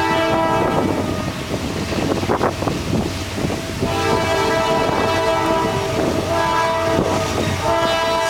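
CSX freight locomotive's multi-chime air horn sounding over the rumble and clatter of the passing train: one blast ends about half a second in, a long blast runs from about four seconds to near the end, and another begins just before the end.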